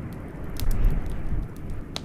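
Wood fire crackling with scattered sharp pops over a steady low rush of blizzard wind, which swells into a deeper gust from about half a second in to past the middle.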